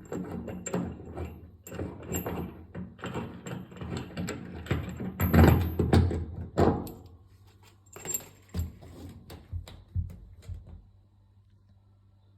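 Metal tool and bolts clinking, knocking and scraping against a washing machine as its transit bolts are worked on: a busy run of clicks and clanks with ringing metallic pings, stopping about eleven seconds in.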